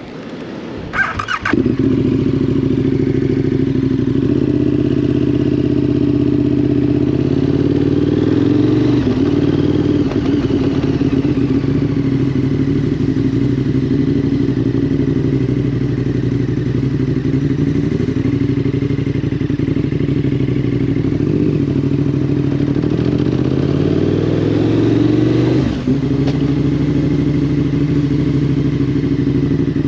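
KTM 1290 Super Duke's V-twin engine comes in loudly about a second in, after a short clatter, then runs steadily at a fairly even pitch as the bike rides along. There is a brief drop in sound near the end.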